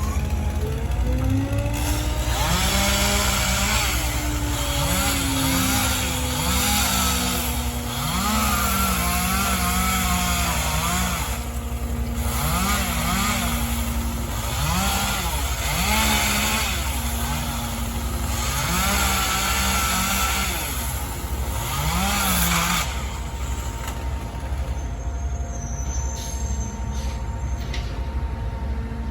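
Small two-stroke chainsaw revved again and again, its pitch climbing and dropping with each throttle squeeze, as it cuts through branches. A diesel engine idles steadily underneath. The saw stops about three-quarters of the way through, leaving only the idle.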